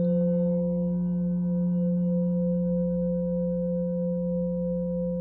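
Singing bowl ringing just after being struck: a low, steady hum with several higher tones above it, fading slowly.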